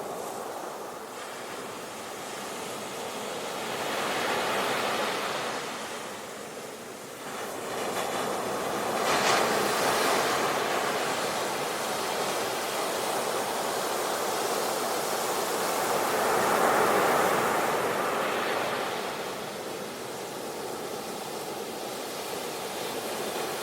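Ocean waves washing onto a shore, a steady surf that swells and eases in slow surges every several seconds.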